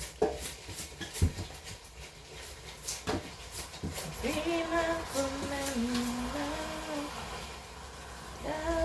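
A few sharp knocks, then from about four seconds in a woman humming a slow tune with held notes.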